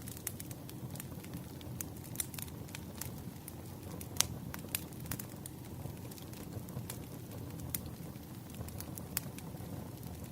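Wood fire crackling: irregular sharp pops and snaps from burning logs over a low steady rumble, with one louder pop about four seconds in.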